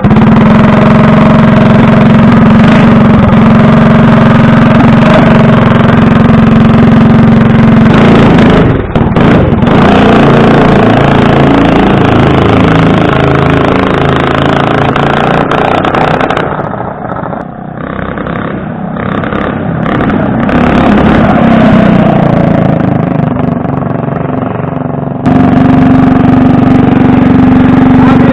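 Predator 212 single-cylinder four-stroke engine on a mini bike running loud through an open side-exit torque tube header pipe, with a deep bellow. The engine note is steady at first, wavers and drops noticeably past the middle, then returns loud and steady near the end. The owner says it needs its carburetor tuned.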